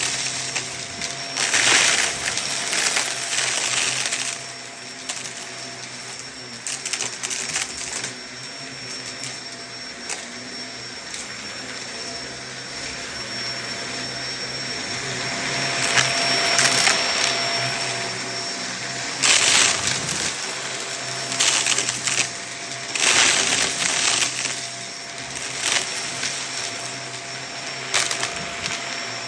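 Vacuum cleaner running over a rug with a steady motor hum, with loud crackling rattles every few seconds as chunky debris is sucked up through it.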